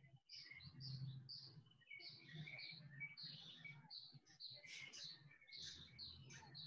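Faint chirping of small birds: many short, high calls, overlapping and repeating quickly.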